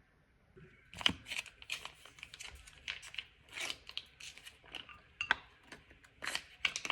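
Packaging crinkling and rustling in irregular sharp bursts, starting about a second in.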